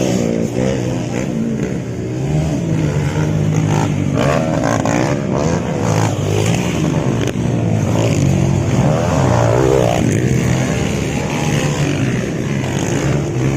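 Several motocross bikes' engines revving, their pitch rising and falling as the riders throttle up and down, with more than one bike heard at once.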